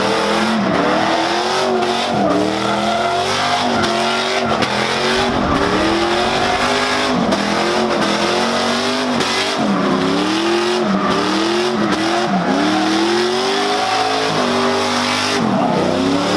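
Car engine revving hard over and over, its pitch climbing and then dropping sharply about once a second.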